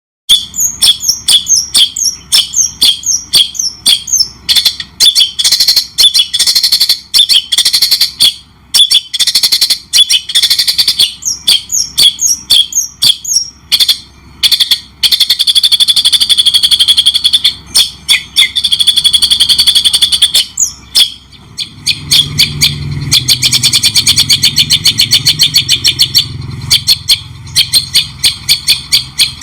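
A songbird singing a fast, varied song: strings of quick chirps, a few longer buzzy notes in the middle, then a rapid, even rattle of notes in the last third, with a low hum underneath it.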